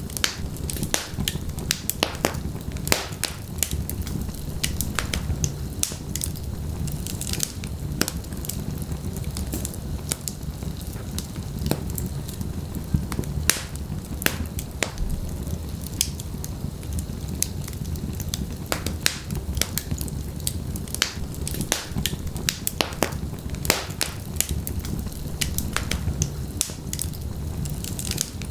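Wood fire burning in a fireplace: logs crackling and popping irregularly over a steady low rumble of flame.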